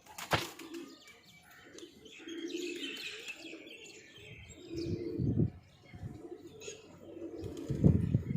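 Pigeons cooing in low, repeated phrases, with a burst of high chirping from small birds about two to three seconds in and a sharp click near the start.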